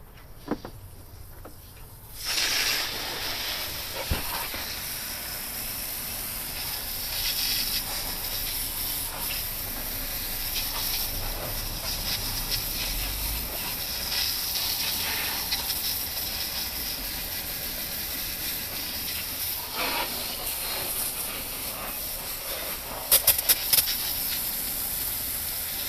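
Water spraying onto an engine bay, rinsing foamed degreaser off: a steady hiss that starts about two seconds in, with a few sharp clicks near the end.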